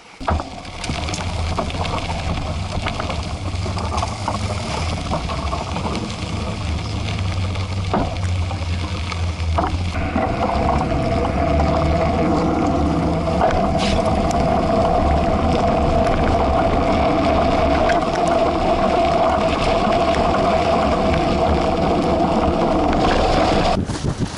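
Wind rushing and rumbling over the microphone with the rolling noise of a mountain bike's knobby tyres on pavement while riding. A steady hum joins in about ten seconds in and stops abruptly near the end.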